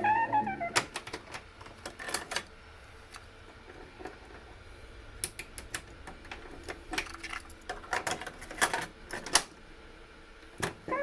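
Irregular clicks and clunks of buttons and switches being worked on a Panasonic boom box, with a brief snatch of pitched sound at the start and a quieter pause partway through.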